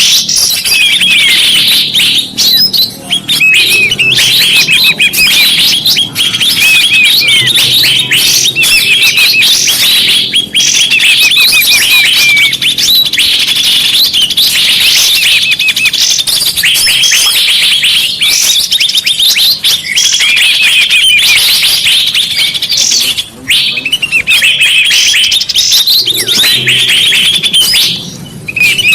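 Bird-lure (pikat) recording: a loud, dense chorus of many small birds chirping and twittering rapidly, with quick up-and-down whistled notes, the kind of calls played to draw birds in.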